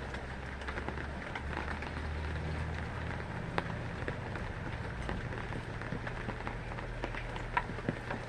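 Steady rain, with many separate drops tapping sharply on a hard surface.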